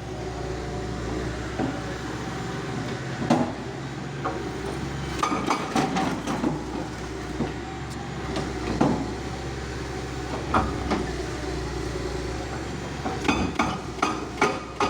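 Heavy machine engine running steadily during demolition, with irregular clanks and knocks of metal and debris striking, several in quick succession near the end.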